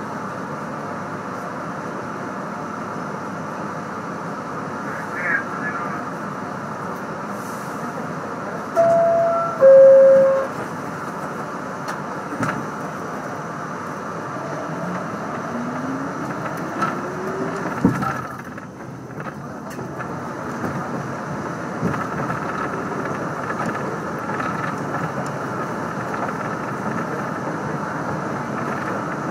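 Train running past, a steady rumble throughout. About nine seconds in a horn sounds two short notes, the second lower and the loudest sound here, and a little later a rising whine.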